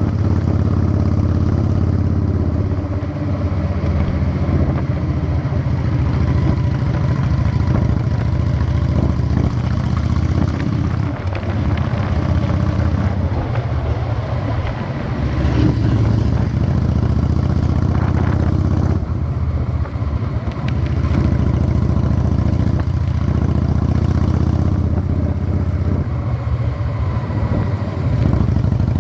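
Honda Shadow 600 V-twin motorcycle engine running under way, its note dipping and picking up again a few times as the throttle comes and goes.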